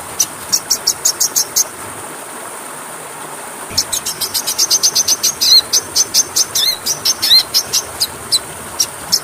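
Small songbird calling in fast runs of short, high chipping notes, several a second, with a few down-slurred notes mixed in; it breaks off for about two seconds and resumes. A steady hiss lies underneath.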